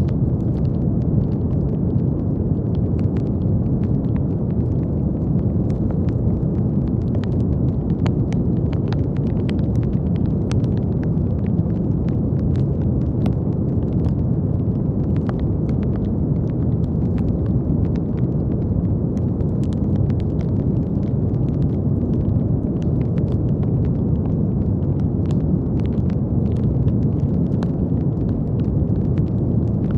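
Steady brown noise, a deep even rushing hiss weighted toward the low end, with faint scattered small clicks or crackles over it.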